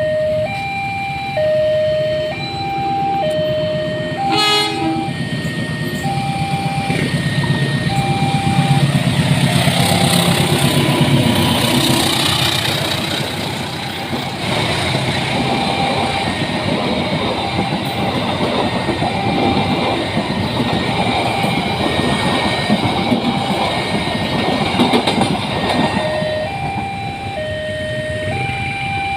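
Level-crossing warning alarm alternating between a high and a low tone throughout. A short train horn blast comes about four seconds in. From about six seconds a locomotive-hauled train passes with rumbling and wheel clatter for some twenty seconds, and the alarm stays audible under it and after.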